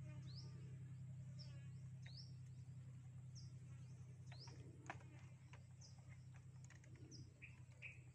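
Faint small-bird chirps, short rising notes repeated every second or so, over a steady low hum and a few light clicks.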